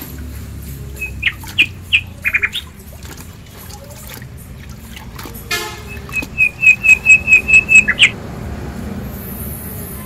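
Small bird chirping repeatedly, ending in a quick run of about a dozen sharp chirps in the second half, over the low sloshing of water as mushrooms are rinsed by hand in a tub.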